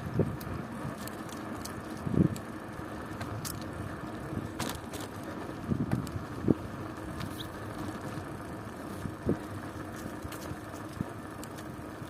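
Bicycle being ridden: a steady rolling noise from the tyres and drivetrain, broken by a few knocks and rattles as it goes over bumps, the loudest about two seconds in and again around six seconds in.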